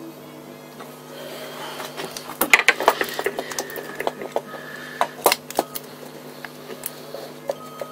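Sharp clicks and clinks of metal parts and tools being handled while a carburettor is fitted and levelled, a quick cluster about two and a half seconds in and a few more around five seconds, over a steady low hum.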